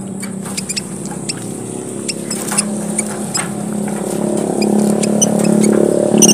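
A group of emprit merah papua (small red Papuan finches) chirping busily: many short, thin, high chirps scattered irregularly, over a steady low hum that swells somewhat toward the end.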